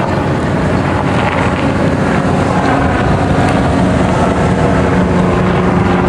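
Diesel locomotive of a grain train running with a loud, steady engine drone, its engine note growing stronger about four seconds in.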